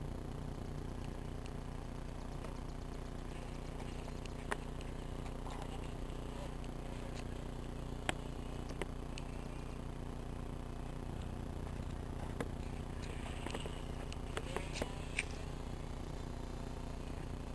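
Twin small electric motors and propellers of a toy RC airplane droning steadily, with a few sharp clicks scattered through.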